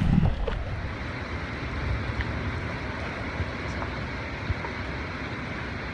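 Steady rush of wind and road noise from a moving motorcycle, with no clear engine tone standing out.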